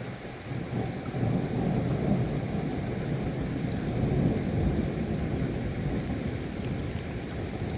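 Rolling thunder over steady rain: a deep rumble builds about a second in and keeps rolling, louder than the rain hiss beneath it.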